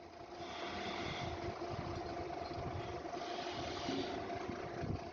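A steady mechanical hum with a constant low tone over a noisy drone, like a machine running.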